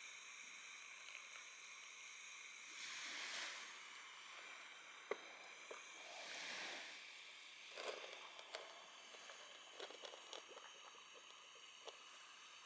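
Faint beach ambience: two soft washes of surf rise and fall, followed by a scatter of small clicks and taps.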